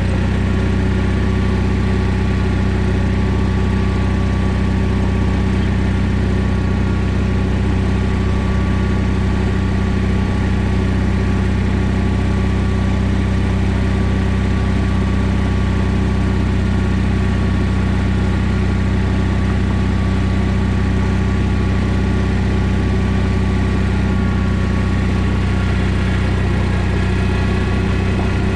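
John Deere 317 garden tractor engine running at a steady speed, with an even drone and no change in pitch, while the tractor is driven.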